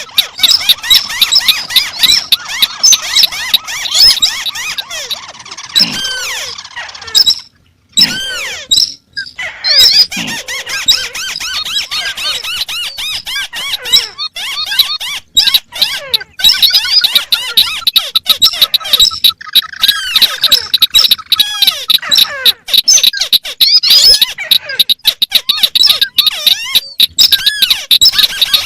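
Recorded calls of crakes, several overlapping out of step: dense, rapid squeaky chattering and chirps, with repeated falling notes. There are short breaks about seven and nine seconds in.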